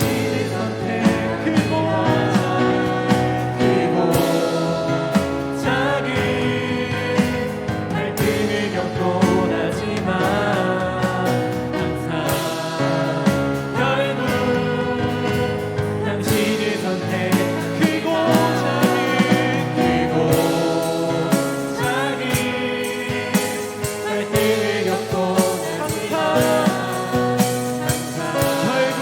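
Christian worship song: voices singing a slow melody over instrumental accompaniment with a steady beat.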